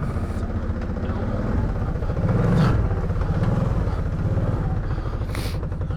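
ATV engine running, with the revs rising briefly about halfway through.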